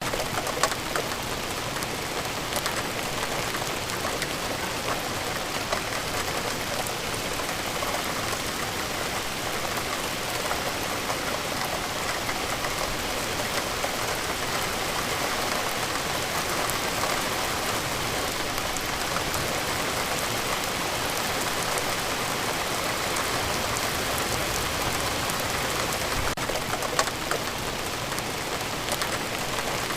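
Steady rain falling on a surface, with many individual drops ticking sharply through a dense even patter.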